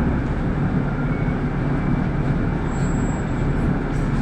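Inside a city bus under way: a steady low engine drone and road rumble in the cabin.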